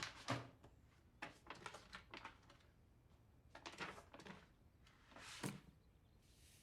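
Near silence broken by a few short clusters of faint rustling and clicks, with a faint hiss near the end.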